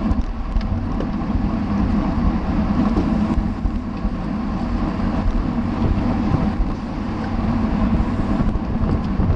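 Wind rushing and buffeting over the microphone of a camera carried on a road bike ridden at race speed, a steady low rumble with no distinct events.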